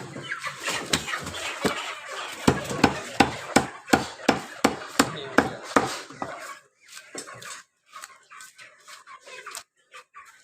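Cleaver chopping chicken on a wooden block: a run of about ten sharp chops, roughly three a second, followed by quieter, scattered knocks.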